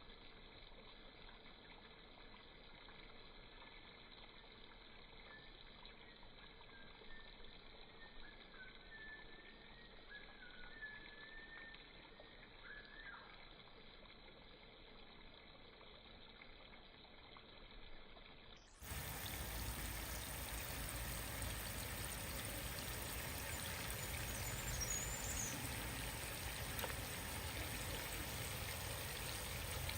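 Faint quiet background with a few faint chirps, then an abrupt cut about two-thirds of the way through to a louder, steady rush of water pouring and running, as when toys are washed.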